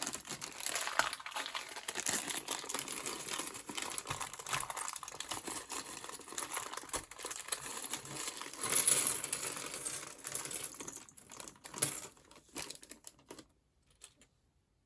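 A plastic parts bag crinkling and rustling as it is handled, mixed with small clicks of plastic block pieces; it stops about 13 seconds in.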